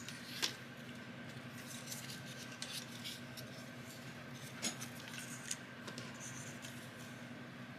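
Paper being folded and handled for an accordion-pleated paper rosette: light rustling and creasing with a few short, sharp clicks, the sharpest about half a second in.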